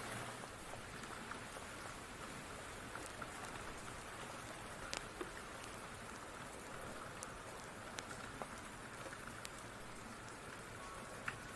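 Steady rain with a wood fire crackling, heard as scattered sharp pops over the rain's even hiss; the clearest pops come about five seconds in and near the end.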